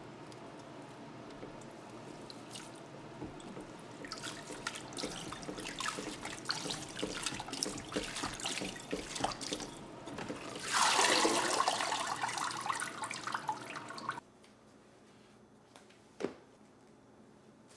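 Water running from a kitchen tap into a sink and splashing over fresh parsley being rinsed, irregular at first, then a heavier flow for about three seconds that cuts off suddenly. A single sharp click follows.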